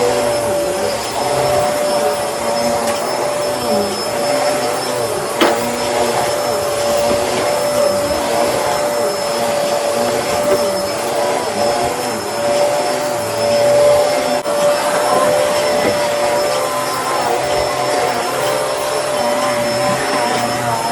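Bissell Helix vacuum cleaner running steadily, with a constant motor whine and a wavering lower hum as it is worked. A single sharp click comes about five seconds in.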